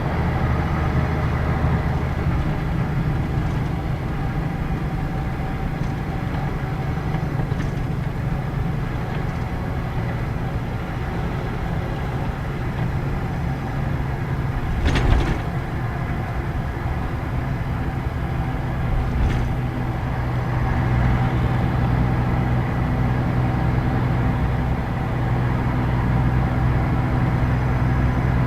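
Scania K113 bus's six-cylinder diesel engine running under way, heard from inside the bus. About halfway through there is one short sharp noise, and about two-thirds of the way in the engine note changes and gets a little louder.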